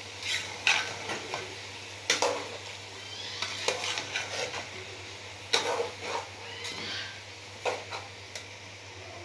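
Spoon stirring chicken and vegetables in a pot, knocking and scraping against the pot at irregular intervals over a faint sizzle from the frying.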